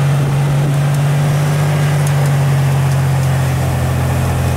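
Truck engine running close by at a steady speed, a loud low hum that holds one pitch.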